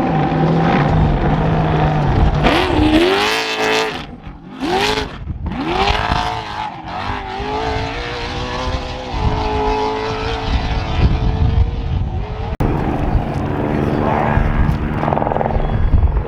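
Trophy truck engine revving hard, its pitch climbing and falling several times as it accelerates and passes, with an abrupt change in the sound about twelve seconds in.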